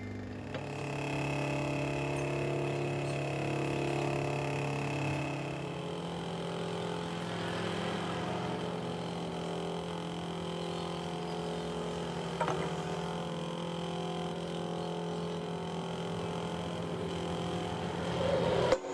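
Hydraulic press pump running with a steady hum whose pitch shifts about six seconds in, as the press works a torque rod bush. A single sharp crack comes about twelve seconds in, and a louder burst just before the end.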